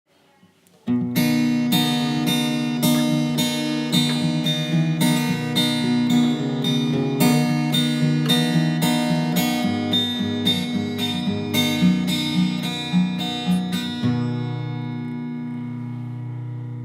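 Jaw harp plucked in a steady rhythm, about two plucks a second, over its continuous buzzing drone, with shifting overtones above it. The plucking stops about three seconds before the end and the drone rings on, fading.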